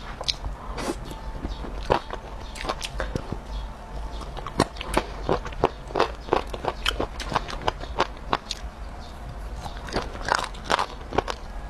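Close-miked biting and chewing of fried skewer food in chili sauce: irregular sharp mouth clicks and crunches as pieces are bitten off the bamboo sticks and chewed.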